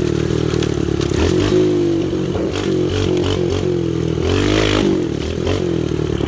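Small single-cylinder pit bike engine being ridden, its pitch rising and falling repeatedly as the throttle is opened and closed, with some clattering knocks over the rough ground.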